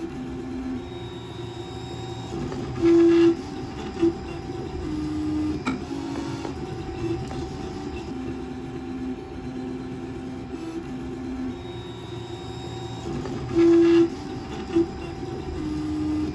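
CTC FDM MK8 3D printer printing. Its stepper motors whine in tones that jump from pitch to pitch as the print head moves back and forth laying down a honeycomb pattern, over the steady hum of its cooling fans. A louder tone sounds briefly twice, about three seconds in and again near the end.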